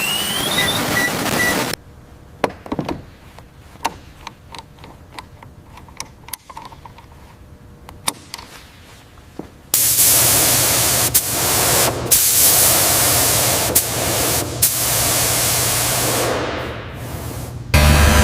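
Scattered light clicks and taps, then, about halfway through, a loud steady hiss with a few clicks over it that eases off near the end.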